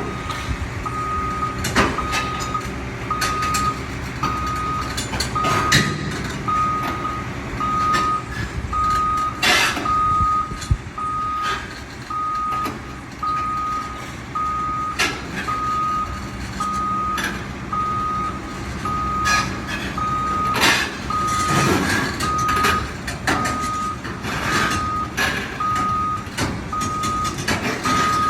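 A heavy vehicle's reversing alarm beeping steadily about once a second over its running diesel engine, with scattered clanks and knocks and a few short bursts of hiss.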